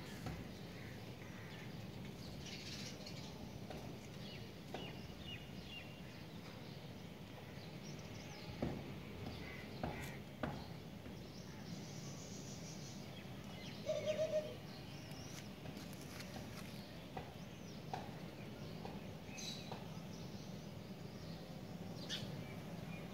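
Scattered bird chirps over a steady low hum, with a few sharp clicks and one short, lower-pitched call about fourteen seconds in, the loudest sound.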